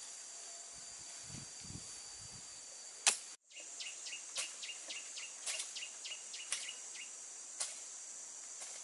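Outdoor rural ambience: a steady high insect buzz. After a brief cut about three seconds in, a quick run of about ten short high chirps mixed with sharp clicks follows.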